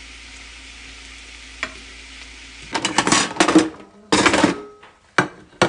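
Sliced plantains frying in oil in a pan on medium heat, a steady sizzle. From about three seconds in come several much louder, short bursts of noise.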